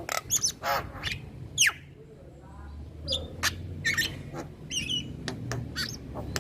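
Male Javan myna calling: a rapid series of sharp, scratchy calls and whistles, one sweeping steeply down in pitch about one and a half seconds in. A steady low hum runs underneath.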